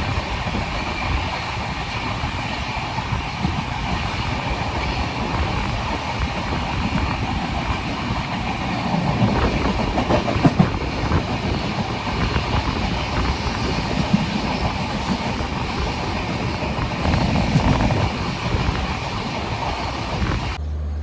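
Express passenger train running along the track: a steady rumble with the wheels clattering over rail joints, and a few louder knocks about halfway through.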